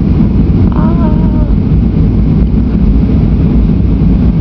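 Steady, loud low rumble of a Boeing 737's engines and airflow heard inside the passenger cabin as the airliner descends on final approach. A brief faint voice comes through about a second in.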